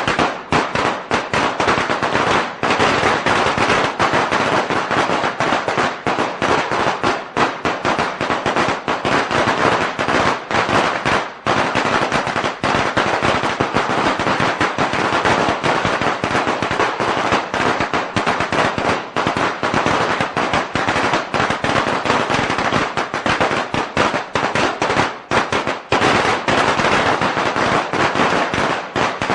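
A string of Chinese firecrackers going off in a dense, rapid crackle of bangs, with only a few momentary lulls.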